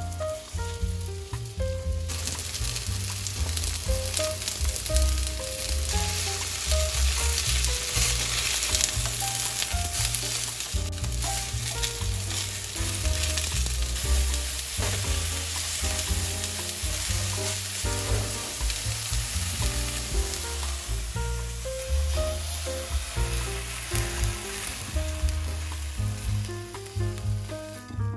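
Chicken pieces sizzling as they fry in a nonstick pan, turned now and then with a silicone spatula; the sizzle gets much louder about two seconds in. Soft background music with a melody and bass line plays underneath.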